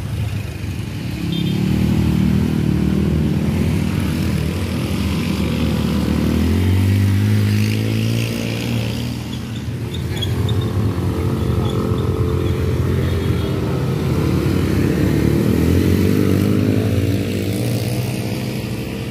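Motorcycle engine pulling hard up a steep climb under heavy throttle. Its pitch rises and falls several times as it revs and changes gear, with a clear rise about a second in, a drop to a lower steady note about six seconds in, and further rises near the middle and near the end.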